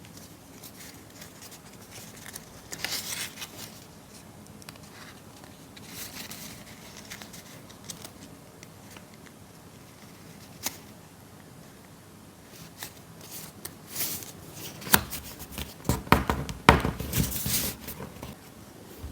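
Sheets of paper being handled, folded and pressed: rustling and crinkling with small taps, growing louder and busier for the last few seconds.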